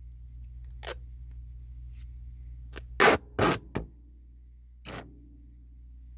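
Tape being pulled off its roll and wrapped around ductwork in short rasping pulls, with three loud pulls in quick succession about three seconds in and single pulls near the start and about five seconds in. A steady low hum lies underneath.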